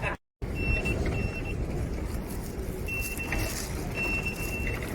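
Noisy ambience of a busy underground station concourse, heard while walking, with a thin high tone that comes and goes several times. The sound cuts out completely for a moment just after the start.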